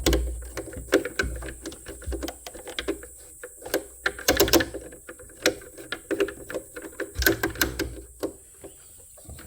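Irregular rapid clicks, taps and light knocks of tools and machine parts being handled while an espresso machine is screwed back together, with denser bursts of clicking about four and seven seconds in.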